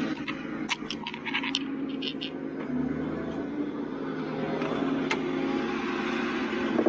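Ford F450 recovery truck's engine idling with a steady hum, with a few sharp clicks over it.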